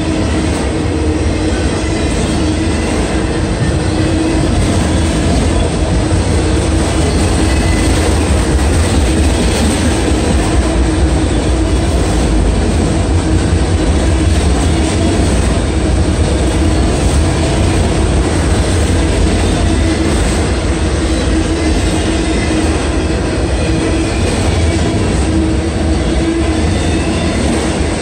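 Freight train of autorack cars rolling past at speed: a loud, steady rumble of steel wheels on rail, with a steady squealing tone running through it.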